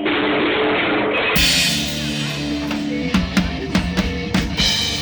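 Rock band music with a drum kit. For the first second or so it sounds muffled, with the top end cut off, then opens to full sound with kick, snare and cymbal hits.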